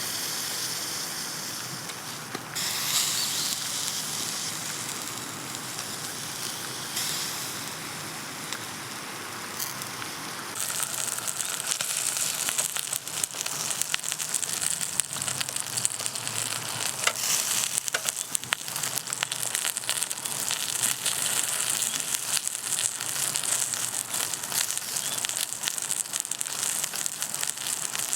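Food sizzling and crackling over a cooking fire, the sizzle growing louder and denser about ten seconds in.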